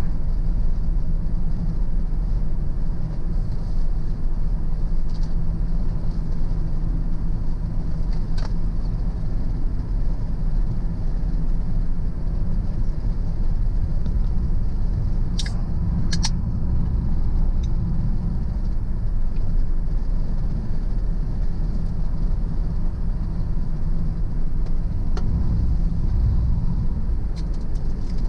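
Car driving along a road: steady engine and tyre rumble, with a few brief clicks about halfway through.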